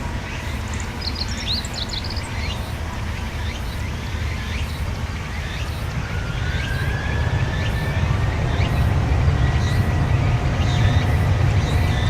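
Airbus A321-200 airliner's jet engines: a low rumble growing steadily louder, with a whine that rises in pitch about six seconds in and then holds. A few bird chirps near the start.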